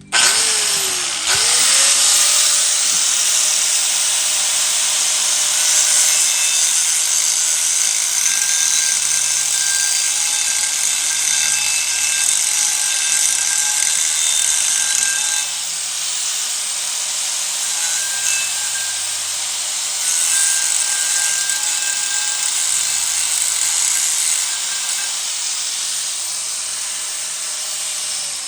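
Electric power tool in a machine shop spinning up and working metal for nearly half a minute with a steady motor whine and a loud hissing grind, then winding down near the end.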